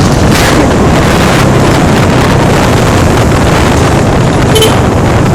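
Wind buffeting the microphone on a fast-moving motorcycle, over a steady drone of engine and road noise. A short tone sounds once near the end.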